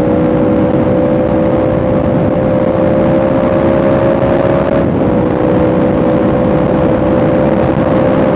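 Yamaha R1M's crossplane inline-four running under steady load, its pitch climbing slowly. About five seconds in there is a quick break and a small drop in pitch, like a gear change, before it climbs again. A dense rush of noise lies under it.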